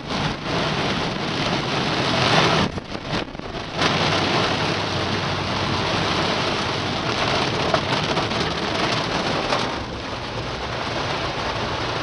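Torrential rain pouring down, a dense steady hiss with a brief dip about three seconds in.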